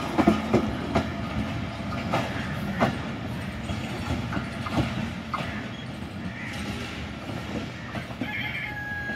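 Passenger train coaches rolling away on the rails, wheels clacking over rail joints at uneven intervals. The rumble fades as the last coach pulls away.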